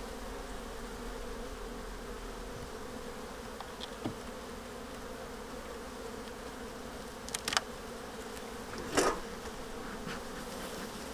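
Honeybees buzzing steadily in a low hum around an opened hive. A couple of sharp clicks come about seven and a half seconds in, and a louder knock about nine seconds in.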